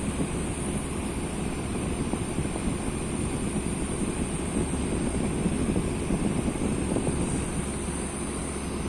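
Fan heater running, blowing a steady even rush of air with a thin high tone over it.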